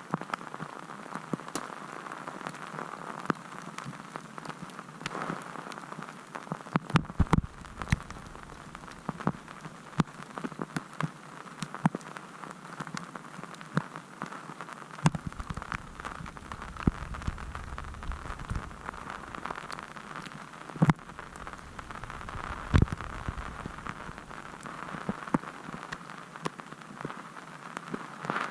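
Blizzard precipitation driven by the wind against surfaces: a steady hiss peppered with many small sharp ticks. Low wind rumbles on the microphone come and go, around a quarter of the way in and through the middle.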